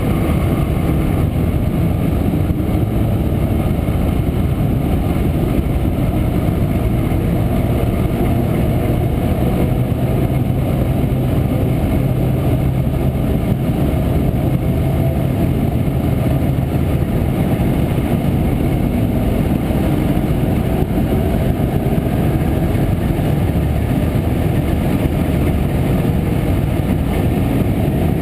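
1967 Montesa Impala Comando 175 cc single-cylinder two-stroke engine running steadily on the move, heard from on board the motorcycle.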